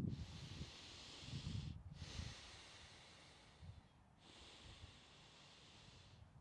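Deep, rhythmic Wim Hof-method breathing: three long, airy breaths of about two seconds each, with short pauses between them and some low rumble in the first two seconds.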